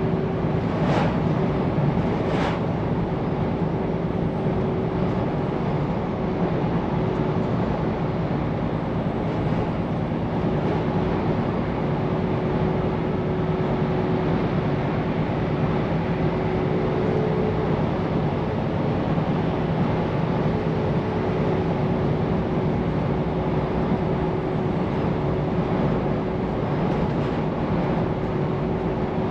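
Scania P410 truck engine running steadily, with tyre and road noise as the truck drives along. There are two short clicks about a second in and again a second and a half later.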